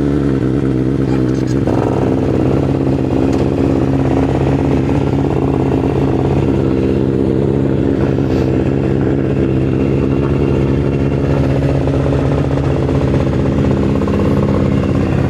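BMW motorcycle engine idling steadily, freshly started.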